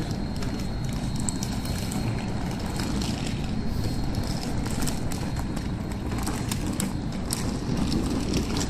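Electric locomotive-hauled passenger train, the EU07 with double-deck coaches, rolling slowly through the station: a steady low rumble with many irregular clicks and clacks of wheels over rail joints and points, and a faint steady high whine.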